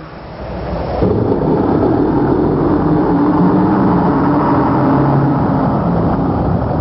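Heavy truck engine running with a low rumble, growing louder over about the first second and then holding steady.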